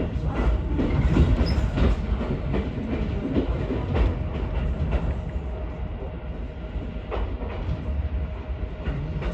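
Ichibata Electric Railway train running on the track, heard from inside the car: a steady low rumble of wheels on rail with scattered clicks over rail joints, easing off slightly toward the end.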